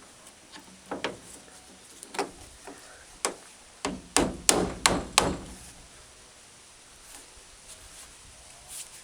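A hammer tapping a small window-track peg up into its hole inside a truck door. There are about eight sharp blows: three spaced about a second apart, then a quick run of five near the middle. The peg is not seating because an old broken-off clip is still stuck in the hole.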